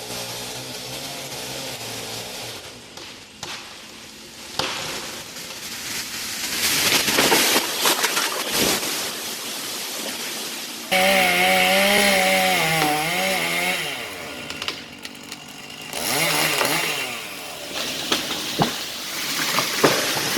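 Chainsaw running and cutting wood, its engine pitch rising and falling under load, with abrupt changes partway through.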